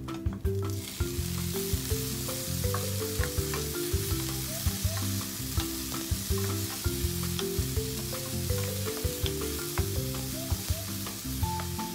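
Broccoli florets and shrimp sizzling in a hot frying pan with carrot strips, the sizzle setting in about a second in, as they are stirred with a wooden spatula with small clicks. A melody of short notes plays in the background music throughout.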